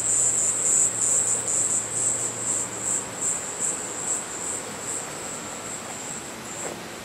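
Cicadas singing: a high, shrill buzz pulsing a few times a second, fading gradually over the last few seconds.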